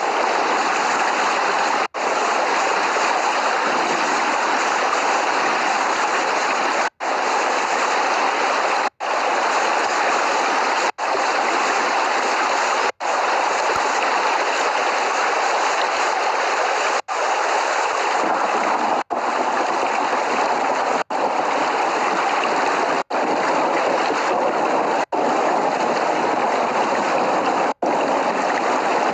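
Steady, dense hiss of heavy rainfall with no thunder, broken by about a dozen split-second dropouts to silence, mostly two seconds apart.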